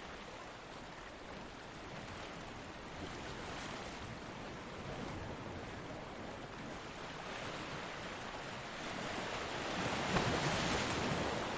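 Ocean waves breaking on a beach: a steady wash of surf that slowly swells to a louder crash about ten seconds in, then eases off.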